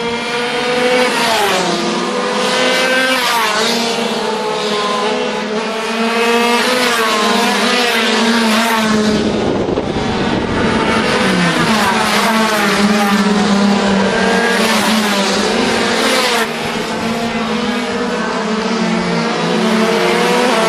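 Several 50cc two-stroke racing motorcycles running hard at high revs, their overlapping engine notes repeatedly rising and falling with throttle and gear changes.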